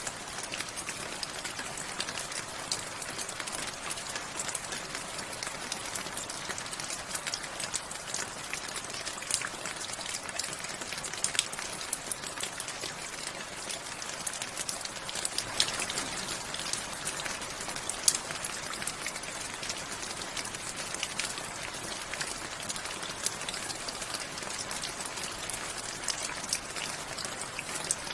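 Steady rain with many individual drops ticking sharply against a hard surface over the continuous patter.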